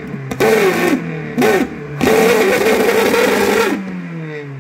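VW Polo 1.4 engine being revved hard with an inner tube fitted over the tailpipe: two quick blips of the throttle, then a held rev of nearly two seconds that drops back toward idle near the end.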